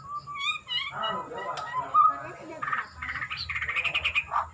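Murai songbird (a Copsychus magpie-robin/shama) singing a varied phrase of whistles, rising glides and chattering notes, ending in a quick run of rapidly repeated notes.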